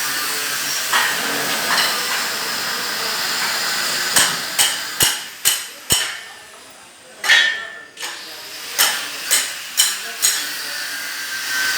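Hammer blows: a run of five strikes about half a second apart, a louder single blow, then four more strikes, over a steady background hiss.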